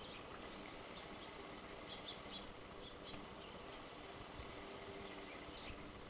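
A few faint, short bird chirps, scattered a couple of seconds apart, over a steady low outdoor hiss.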